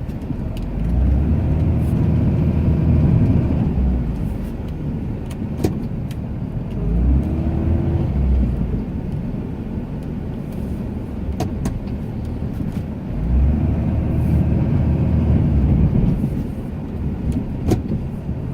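Ram 2500 pickup's engine running under load while plowing snow, revving up three times with a rising whine as the truck pushes, and a few sharp clicks.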